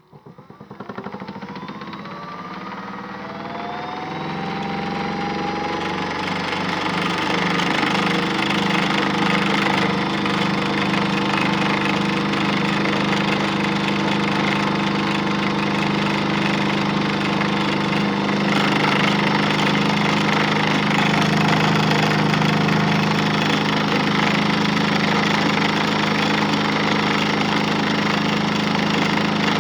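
The motor of a modified Miele W1 toy washing machine starting from silence and speeding up with a rising whine over the first few seconds, then running steadily with a mechanical hum.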